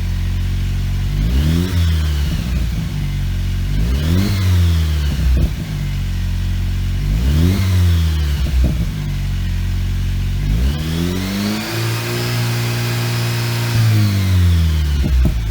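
Jeep Wrangler JL's 2.0-litre turbocharged four-cylinder engine through a Borla Touring exhaust, idling and revved: three quick blips of the throttle, then a longer rev held for about three seconds near the end before it drops back to idle.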